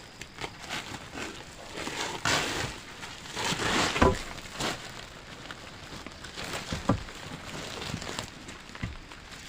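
Rustling and crinkling handling noise with a few short knocks, loudest between about two and four seconds in.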